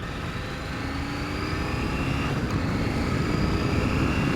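KTM 790 Adventure's parallel-twin engine pulling under acceleration while riding, growing steadily louder and rising slowly in pitch.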